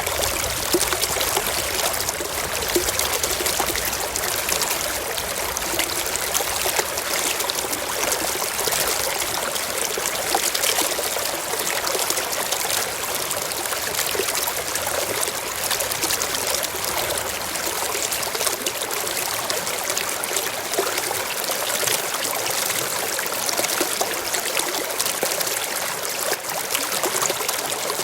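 Shallow stream running steadily over rocks, a continuous trickling and splashing.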